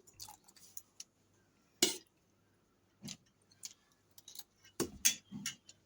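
Eating sounds: a spoon clicking and tapping on a plate, with mouth clicks of chewing, as scattered sharp ticks with the loudest about two seconds in and around five seconds in.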